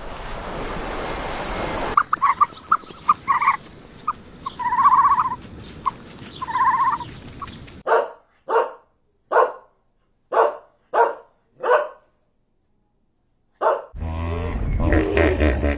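A dog barking: a run of about six evenly spaced barks, then a pause and one more bark. It is preceded by a few short, higher yips and clicks and followed by low growling.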